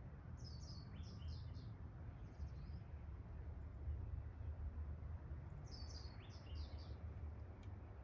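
Small songbirds chirping: two short runs of quick, high chirps, one about half a second in and another around six seconds in, over a low steady outdoor rumble.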